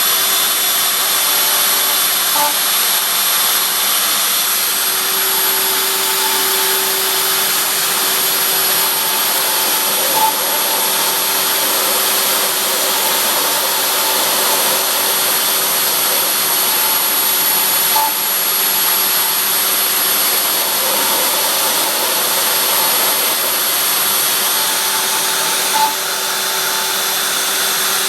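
Router spindle of a homemade CNC machine running steadily at high speed, a loud whining hiss. A brief tick comes about every eight seconds.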